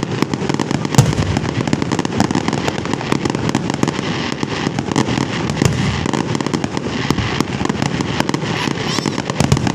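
Fireworks going off in a dense, continuous crackle of rapid pops, with one louder bang about a second in.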